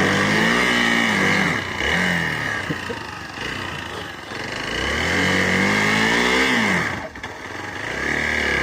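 Hero XPulse 200 4V's single-cylinder engine under way, its pitch rising and falling twice as the throttle is opened and closed, and climbing again near the end. A steady high-pitched hiss runs underneath.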